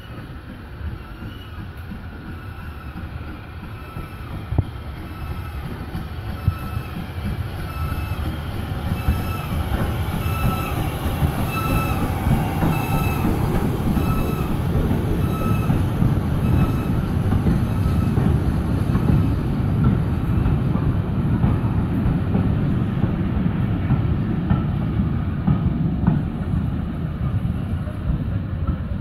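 Train running on a heritage line, its low rumble growing steadily louder as it approaches. Over the first half, short high wheel squeals repeat about once a second, dropping slightly in pitch, then fade out.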